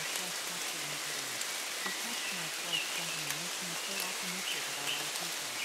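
Steady rain falling, with a faint low voice just audible beneath it: the masked affirmations of a subliminal track.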